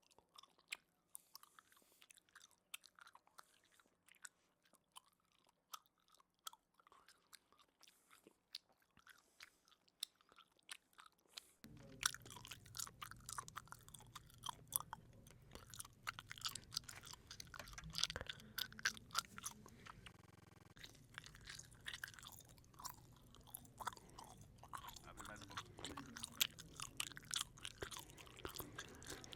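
Chewing and crunching of food: a steady run of short, crisp bites and chews. Partway through, the background changes to a steady low hum under the chewing, as a second recording begins.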